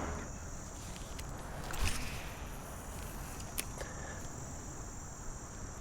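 Steady high-pitched insect chorus, cricket-like, over a soft even background hiss, with a couple of faint clicks about two and three and a half seconds in.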